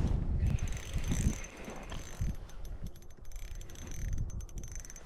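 Small fishing reel being cranked to bring up a fish through the ice: a light mechanical whirring with a run of fine rapid clicks a little past the middle.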